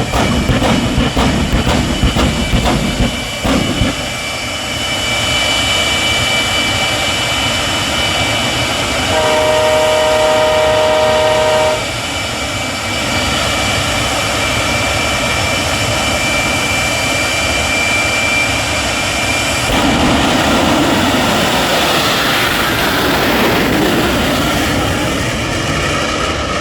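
Jet turbine engine of a jet-powered drag truck running: a steady high whine over a broad roar. A horn sounds for about three seconds near the middle, and the roar swells louder from about two-thirds of the way in.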